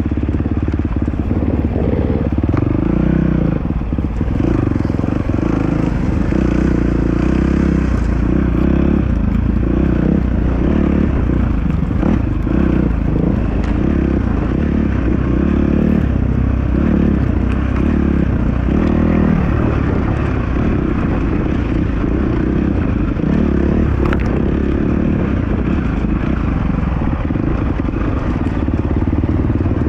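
Dirt bike engine running steadily and loudly for the whole stretch, with its pitch and level changing only a little.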